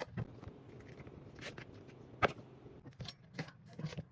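Irregular clicks and knocks of ingredients being cut and handled during stir-fry prep, with one sharp, loud knock a little over two seconds in.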